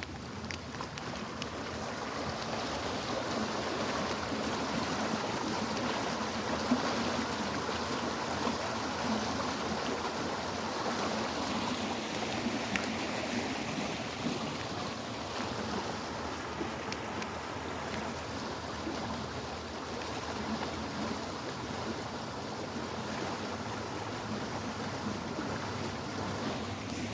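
Steady rushing of flowing water, getting a little louder over the first few seconds.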